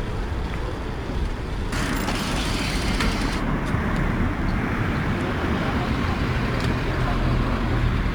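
City street traffic: vehicle engines running and tyre noise. About two seconds in, a loud hiss starts suddenly and cuts off abruptly a second and a half later, and a steady low engine hum comes up near the end.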